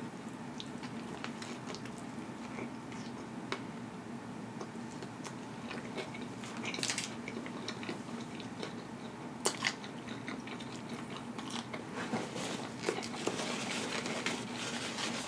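A person biting into and chewing a mouthful of Burger King Impossible Whopper with cheese: scattered small mouth clicks and crunches with a few louder ones about halfway, getting busier in the second half.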